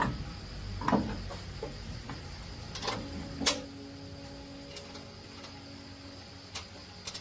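Metal parts being handled during truck axle and wheel work, giving a handful of sharp clinks and knocks over a steady low hum. The loudest come in the first half.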